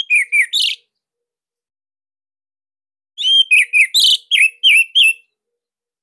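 Orange-headed thrush (anis merah) singing: a short phrase of quick hooked whistled notes at the very start, then, after about two seconds of silence, a longer run of rapid notes. A faint knock sounds partway through the second phrase.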